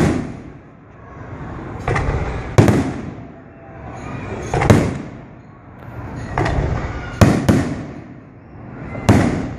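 Fireworks display: aerial shells bursting overhead in about eight sharp bangs, one every second or two, each trailing off in an echo.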